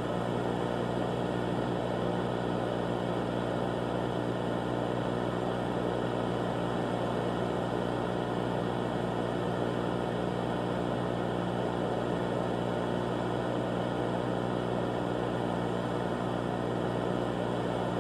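A steady, unchanging drone of hum and hiss.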